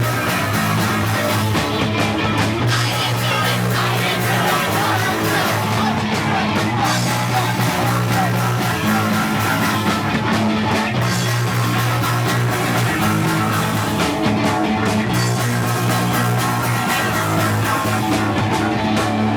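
A punk rock band playing live: loud distorted electric guitar, bass and drums, with held chords that change every few seconds.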